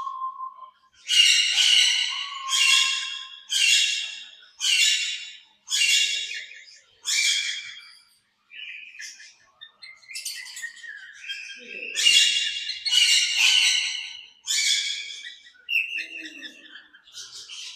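Parrots in an aviary calling with loud, harsh screeches, repeated about once a second, with a short lull midway before the calls start again.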